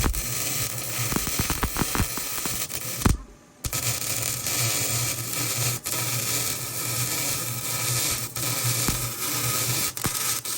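MIG welding arc crackling steadily over a low hum, with a short break about three seconds in.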